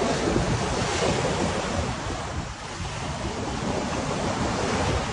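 Wind blowing over the microphone: a steady rushing noise with an uneven low rumble from the gusts.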